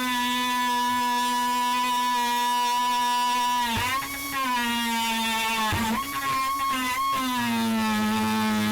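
A power tool's electric motor running with a steady high whine, its pitch sagging briefly twice, about four and six seconds in, as it bogs under load, then recovering.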